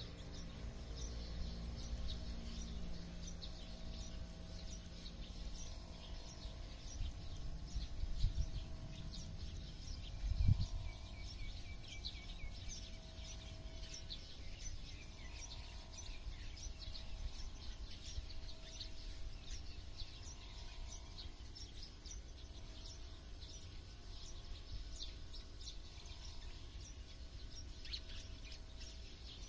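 Many small birds chirping and twittering, in short high calls throughout, over a low rumble of background noise. Two dull low thumps come about eight and ten seconds in.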